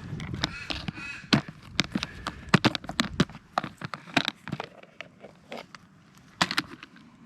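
Irregular clicks, knocks and rustles from a geocache container being handled and opened. A bird caws a few times near the start.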